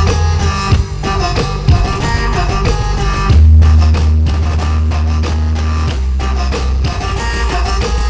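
Music with guitar and drums played very loud through a large carnival parade sound system, with heavy deep bass that swells up about three seconds in and holds for several seconds.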